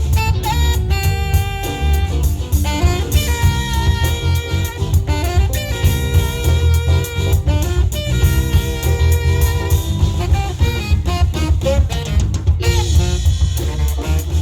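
Live funk band playing: tenor saxophone holding and sliding between notes over a heavy, steady electric bass line, drum kit, guitar and keyboard.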